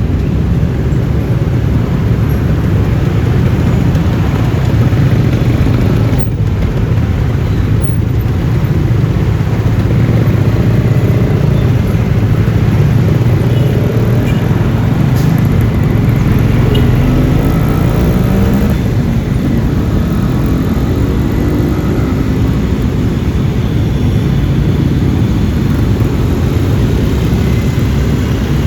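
Steady road noise from riding a Yamaha Lexi LX 155 scooter in traffic: its engine and tyres running with a continuous rush of air. About two-thirds of the way through, an engine note rises and falls a few times.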